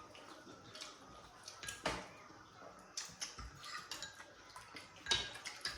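Scattered light clinks and taps of spoons on bowls and plates during a meal, with a few sharper knocks about two seconds in, at three seconds and near the end.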